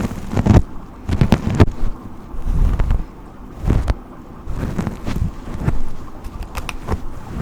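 Brush strokes close to the microphone: about seven rustling, crackly strokes at an uneven pace of roughly one a second, each with a low rumble.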